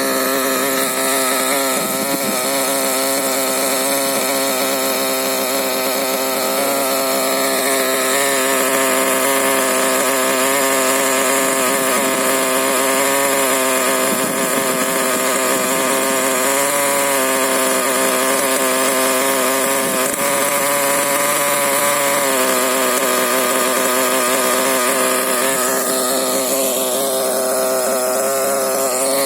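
Small two-stroke nitro engine (LRP ZR.28 Spec 4) of an RC monster truck running continuously at a fairly steady speed, its pitch dipping and rising slightly a few times.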